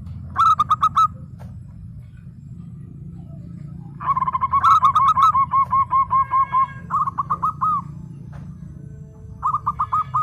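Zebra doves (perkutut) calling in bursts of rapid, rippling coo notes: a short burst about half a second in, a longer run of about four seconds from the middle, and another short burst near the end. A steady low hum runs underneath.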